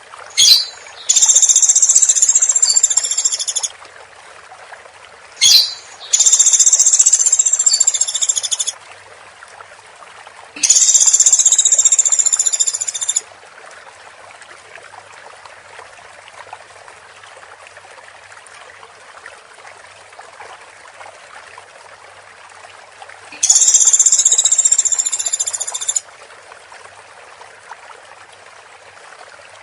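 Woodpecker calling: four long, rapid, high-pitched rattling trills of about two and a half seconds each, the first two each preceded by a single sharp note, with a long pause before the last one.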